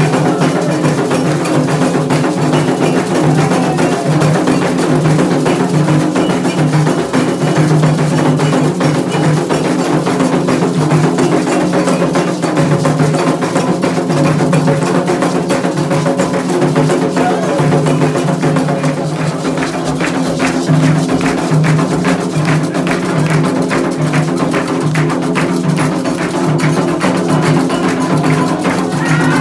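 Candomblé ritual drumming: atabaque hand drums playing a fast, dense, unbroken rhythm for the dance of Xangô.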